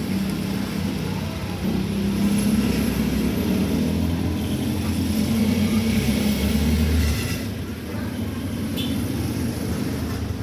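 Steady low motor rumble, like a vehicle engine running, strongest in the middle and easing off about seven seconds in.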